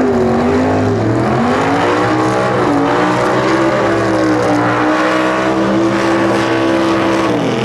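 Drag-racing muscle car's engine at full throttle down the strip. Its pitch climbs, dips briefly about two and a half seconds in as at a gear change, holds high, then falls away near the end.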